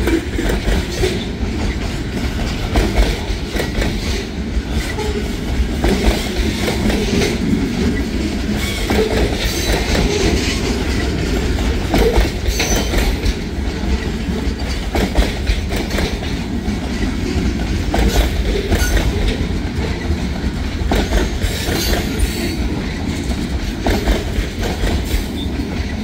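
Freight cars, centerbeam flatcars loaded with lumber, rolling past at close range: a steady rumble of steel wheels on the rails, broken by repeated clacks as the wheels cross rail joints.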